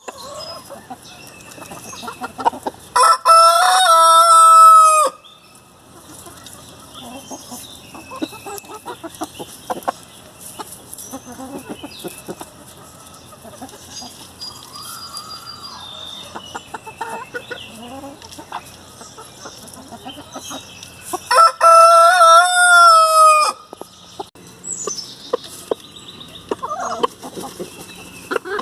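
Hamburg rooster crowing twice, each crow about two seconds long and the loudest sounds, with Hamburg hens clucking and chirping quietly between the crows.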